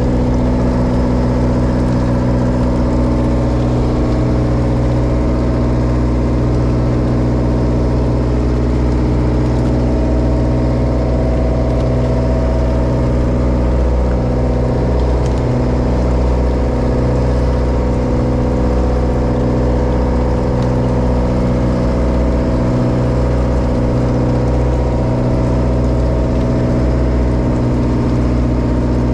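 Diesel engine of a Japanese bottom trawler running steadily at a constant speed.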